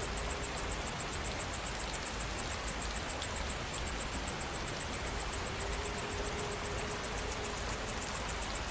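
Steady rain falling, with an insect chirping high above it in a fast, even pulse of about five chirps a second.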